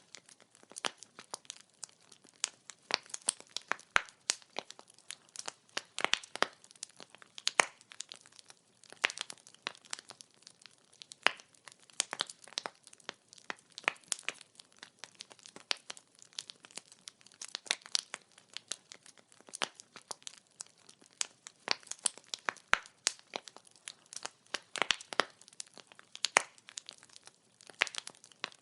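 Burning firewood crackling: a continual scatter of sharp, irregular pops and snaps, several a second, over a faint hiss.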